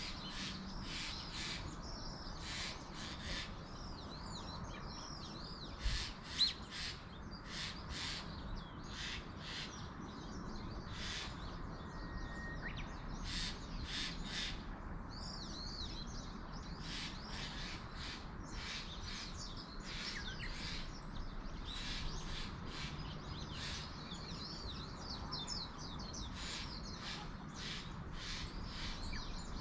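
Crows cawing in repeated series, with smaller birds chirping between the caws, over a steady low background hiss. Two brief thumps about six seconds in.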